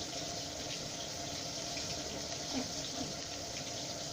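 Pieces of crucian carp frying in oil in a pan over a turned-down gas flame, sizzling with a steady hiss and faint crackles.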